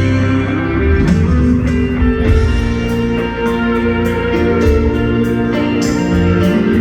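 Live rock band playing an instrumental passage with guitar to the fore and steady drum hits coming in about a second in.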